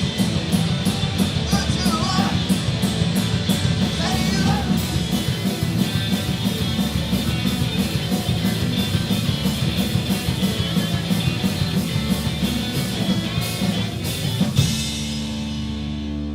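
Live rock band with electric guitars, bass and drums playing punk-style rock, with singing in the first few seconds. About 14.5 seconds in, the band ends the song on a final hit and a chord is left ringing.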